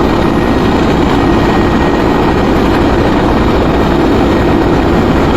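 Helicopter running close by: loud, steady rotor and engine noise with a thin, steady high whine.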